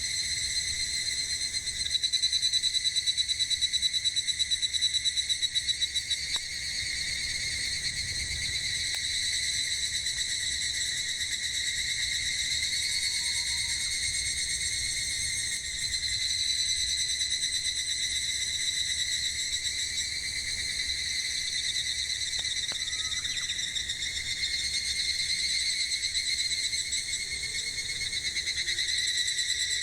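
Cicadas calling in a steady, high continuous drone, pulsing rapidly for a few seconds near the start. A couple of faint pops from the burning firewood.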